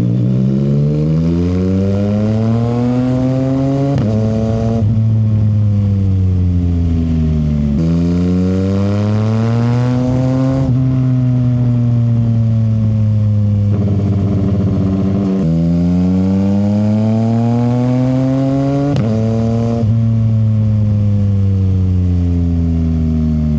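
CFMoto 675 SR-R's inline-three engine through an aftermarket short exhaust, accelerating through the gears. The pitch climbs and drops sharply at each upshift, and in between there are stretches where it sinks gradually off the throttle.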